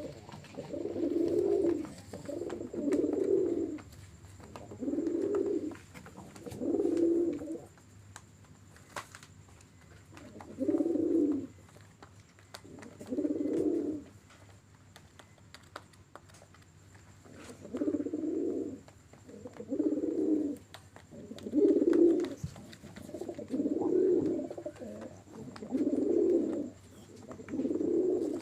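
Domestic pigeons cooing: a series of low, warbling coos about a second long, repeating every two seconds or so, with two short pauses along the way, typical of courtship cooing during pairing.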